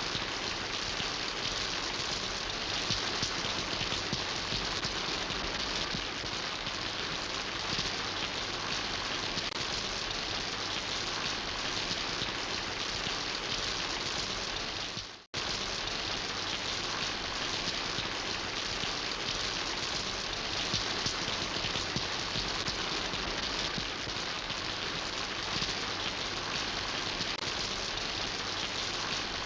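Steady rain falling, an even hiss of many drops. About halfway through it dips to silence for a moment and then starts again at once, like a splice between two recordings.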